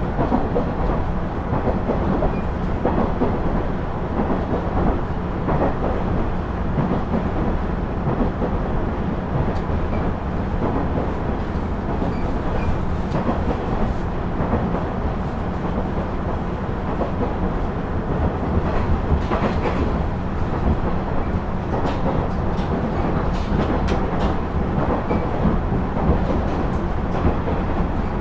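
KiHa 110 series diesel railcar under way: a steady rumble of the diesel engine and wheels on rail, with a low steady drone and scattered clicks from the track.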